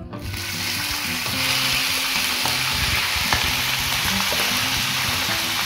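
Shredded boiled chicken sizzling as it drops into hot oil in a frying pan and is pushed around with a wooden spatula. The sizzle starts suddenly and then runs steadily.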